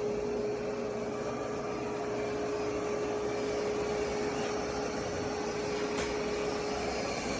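Yeedi M12 PRO+ robot vacuum running: a steady whirring noise with a constant hum on top.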